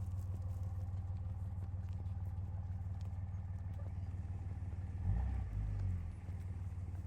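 Vehicle engine running steadily with a low hum, swelling louder for about a second near five seconds in.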